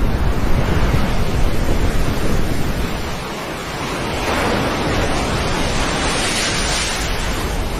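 Surf washing, with wind buffeting the microphone as a low rumble in the first few seconds; a broad hissing wash swells about four seconds in.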